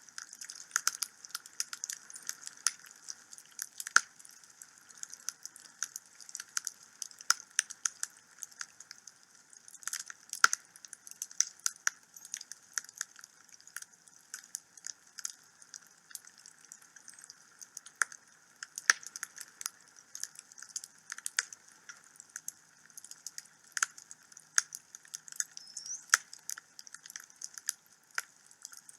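Burning wood crackling and popping in a fireplace: an irregular patter of sharp snaps, a few of them louder pops, over a faint steady hiss.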